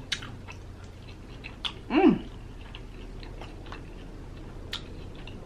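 A person chewing a mouthful of food, with small wet clicks and smacks. About two seconds in there is a short hum from the eater that falls in pitch.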